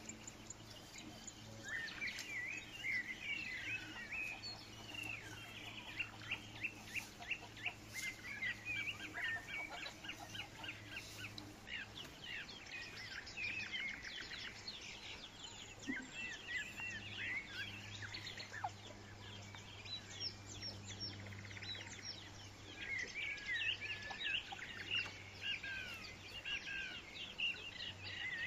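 Birds chirping busily in quick runs of short calls, over a steady low hum.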